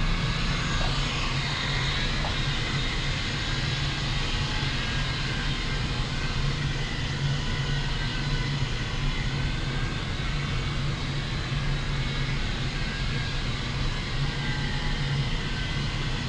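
Small remote-control toy helicopter's electric motor and rotor blades whirring steadily in flight.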